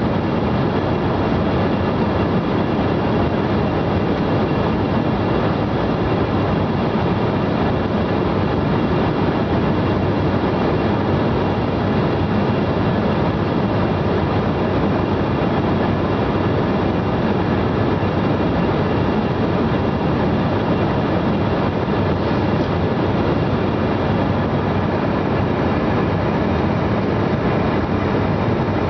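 Steady passenger-cabin noise of an airliner in flight: an unchanging roar of engines and airflow with a faint steady hum on top.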